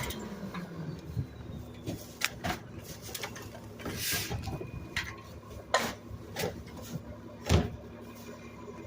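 Scattered clinks and knocks of hard objects against each other, irregular and a second or so apart, with the loudest knock about three quarters of the way through.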